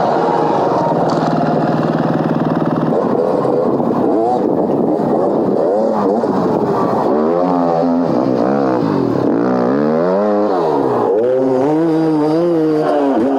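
Mini dirt bike engine revving, its pitch rising and falling over and over, with the swings strongest in the second half.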